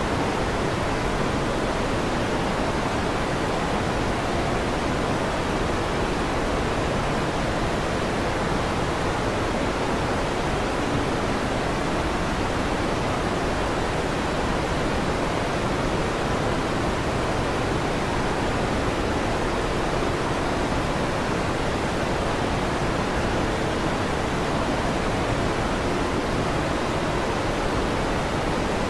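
Electric fan running: a steady, even whoosh of air noise that does not change.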